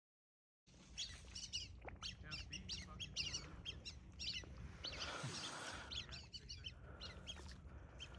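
A flock of whistling ducks calling: many short, high whistled notes overlapping in quick succession, starting abruptly under a second in.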